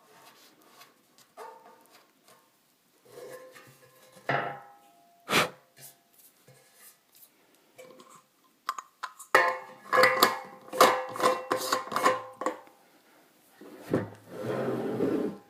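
Plasti Dip rubber coating being peeled off a steel motorcycle fuel tank: irregular crackles and clicks, some ringing briefly off the tank, busiest in the middle. Near the end there is a longer, rough tearing rub as a piece pulls away.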